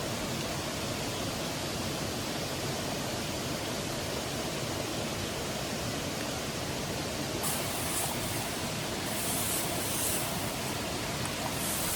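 Steady rushing noise with no clear pitch, with a few brief high hissing spells from about halfway on.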